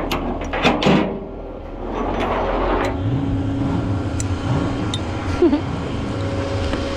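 A vehicle engine running steadily, with a few sharp knocks and clanks in the first second.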